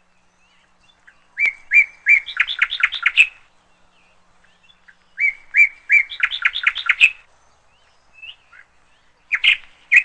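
A songbird singing two phrases. Each is a couple of separate notes followed by a fast run of notes that climb higher and speed up. A shorter burst of notes comes near the end.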